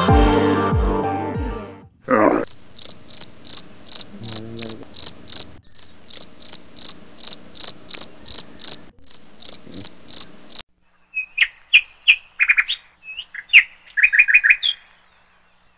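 An insect chirping in a fast, even rhythm of about three chirps a second, which cuts off suddenly, followed by a bird chirping in short, irregular bursts for a few seconds. Background music fades out just before the chirping starts.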